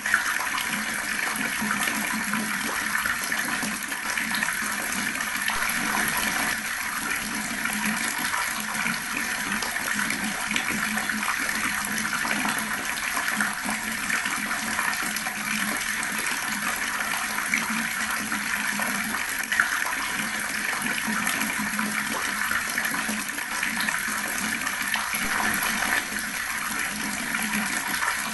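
Water running steadily from a tap in a slow, even stream, splashing into a basin.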